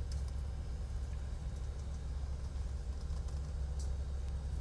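Coast guard patrol boat's engine running steadily, a low, even rumble.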